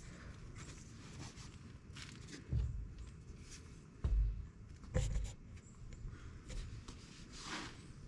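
Workshop handling noise as the ATV's carburetor cables and parts are worked loose: three dull thumps, about two and a half, four and five seconds in, the one at four the loudest, among scattered light clicks and rustles.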